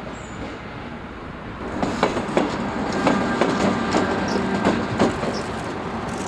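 Train rolling along the rails, with irregular clanks and knocks that grow louder about two seconds in and a faint thin wheel squeal in the middle.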